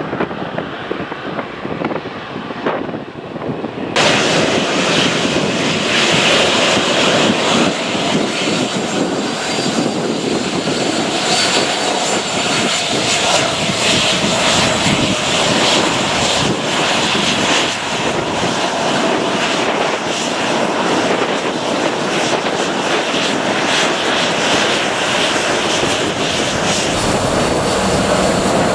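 Wind buffeting the microphone, then, about four seconds in, the loud, steady roar of a departing airliner's engines at takeoff power, with a faint high whine over it.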